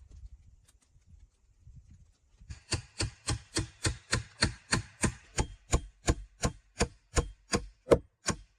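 Rapid, evenly spaced strikes of a hand tool on wood, about three or four a second, starting about two and a half seconds in and keeping a steady rhythm.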